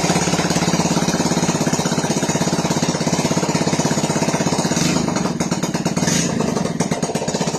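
Yamaha FZ-S V4 motorcycle's single-cylinder four-stroke engine idling steadily just after starting. This is its first run after a gearbox bearing problem was fixed.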